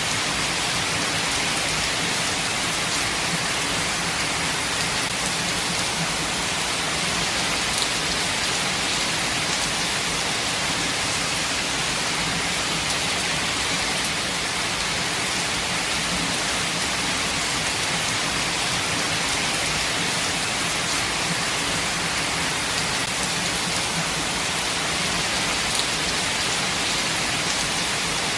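Steady rain falling, an even hiss of many drops with a few sharper drop ticks and no thunder.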